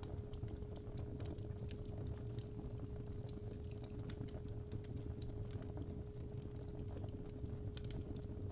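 Fireplace fire crackling with irregular sharp pops over a low steady rumble, under a steady 417 Hz tone.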